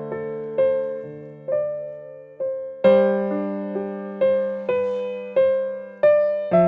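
Slow, gentle piano music: single notes struck roughly once or twice a second, each ringing and fading, over held low bass notes.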